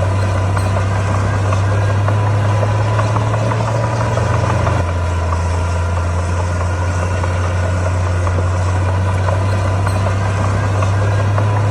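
Heavy diesel engine of earthmoving machinery running steadily, with a light rattle over the hum. The engine note drops slightly about five seconds in and rises again near the end.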